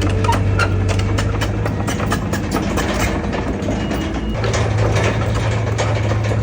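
Heavy diesel engine of an earthmoving machine running steadily with a low hum, over a continuous scatter of clanks and rattles. The engine note drops back about three seconds in and comes up strong again at about four and a half seconds.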